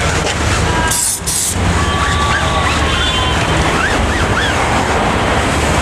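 Two short hisses from an aerosol can of silicone tyre spray about a second in, over a steady rumbling background noise.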